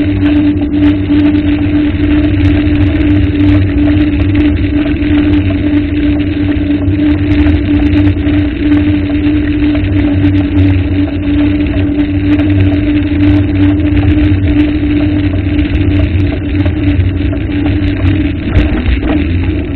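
A steady engine drone with a constant-pitch hum, running evenly and wavering a little near the end.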